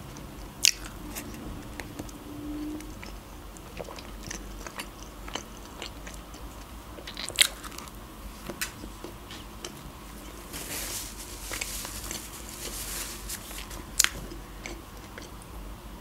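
Close-miked eating: a person biting and chewing food, with scattered small wet mouth ticks and three sharp loud clicks, about half a second in, halfway through and near the end. A stretch of hissier noise comes about two-thirds of the way through.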